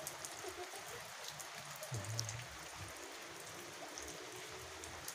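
Light rain falling: a steady soft hiss with scattered ticks of individual drops.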